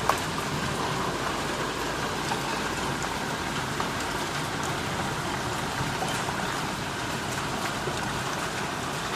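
Heavy thunderstorm rain pouring down steadily, an even hiss dotted with scattered sharp drop taps, with one louder knock just after the start.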